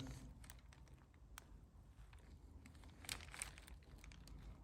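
Near silence with faint rustling and a few light clicks as the parts are handled, the soft rustle strongest about three seconds in.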